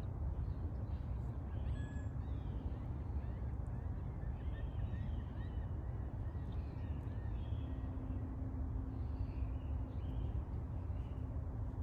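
Birds calling faintly in short chirps over a steady low rumble, with a faint steady hum joining about two-thirds of the way through.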